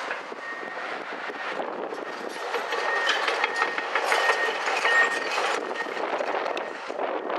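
A train passing, wheels running on rails. It gets louder toward the middle, with a thin high ringing coming and going, and eases near the end.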